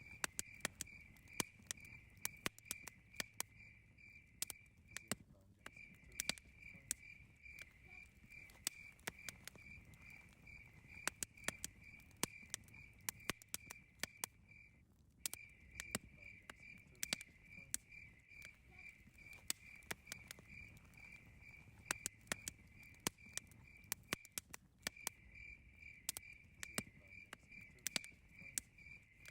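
Campfire crackling with frequent sharp, irregular pops, over a cricket chirping in a rapid, even high-pitched trill that stops briefly three times.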